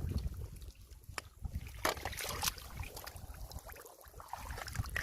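Shallow water sloshing and trickling as someone wades and works in it, with a few sharp clicks.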